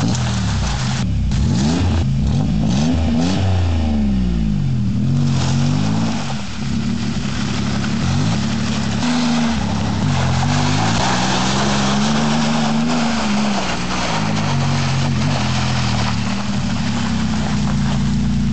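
Toyota pickup engine running through an aftermarket exhaust, revved up and dropping back repeatedly, its pitch rising and falling over and over.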